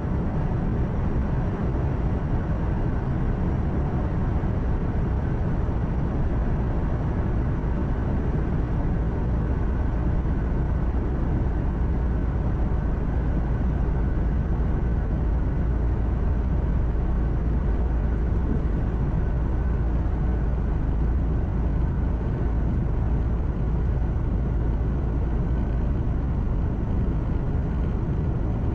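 Steady low drone of a truck heard from inside its cab while driving: engine hum mixed with road and tyre noise, unchanging throughout.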